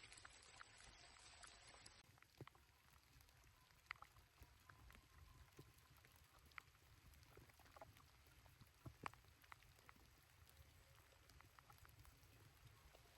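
Near silence: faint low background hum with sparse, irregular soft ticks.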